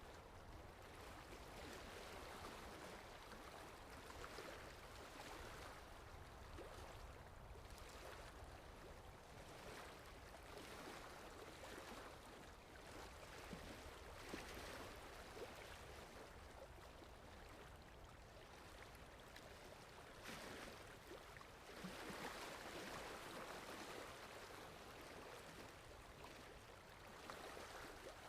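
Faint sea surf: waves washing in and drawing back, with a louder swell about three quarters of the way through.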